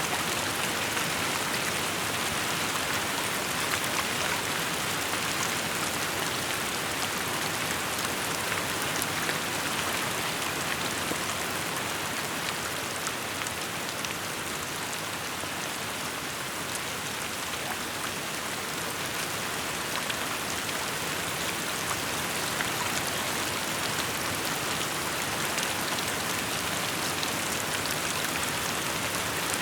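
Steady rainfall, a constant hiss of rain with many fine drops pattering on surfaces.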